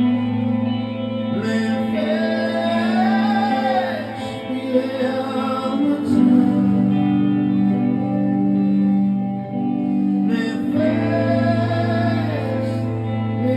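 Live concert music: sustained chords under a singing voice that holds long, wavering notes, coming in about a second and a half in and again near the end, with the chord changing about halfway.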